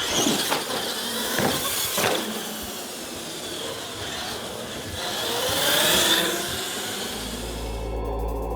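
Scale RC monster trucks launching off the line together and running down a drag strip: motors whining with tyre noise, the whine rising and falling in pitch. Near the end it gives way to a low steady hum.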